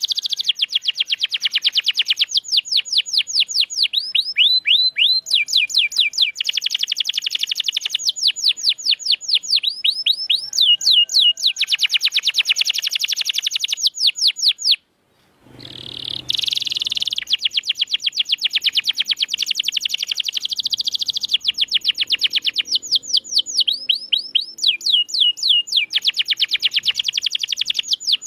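Domestic canary singing fast rolling trills: rapid runs of repeated high notes that switch to a new trill every second or two. The song stops briefly about halfway and starts again.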